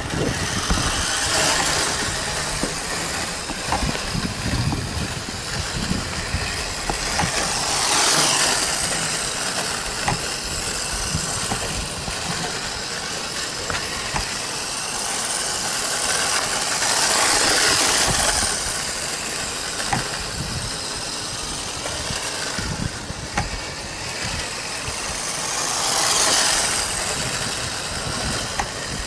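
Small 1/16-scale electric RC truck (GPToys S605) driving around: a steady hiss of motor and tyre noise that swells and fades three times, about nine seconds apart, as it runs close by.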